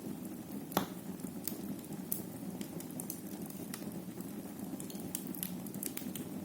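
Wood fire crackling in a fireplace: a steady low hiss of the flames with scattered sharp pops, the loudest about a second in.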